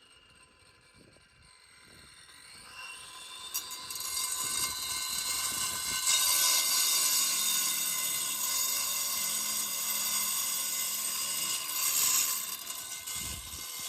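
A machine with a high, many-toned mechanical whine: it spins up with a rising pitch, runs steadily and loud, then stops abruptly.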